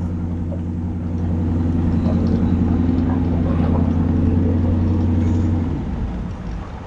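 Pickup V8 engine fitted with a BTR stage 1 truck cam, its cylinder deactivation and variable valve timing deleted, running steadily. Its steady drone drops away and the engine goes quieter near the end.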